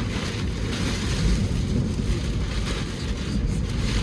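Strong wind from a passing tornado buffeting the microphone: a steady low rumble with a rushing hiss above it.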